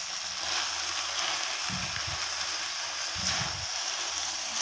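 Shredded vegetables and chicken sizzling in oil in a metal pan while being stirred and tossed with a silicone spatula, with a couple of soft thumps as the spatula turns the mix, about two seconds in and again a second later.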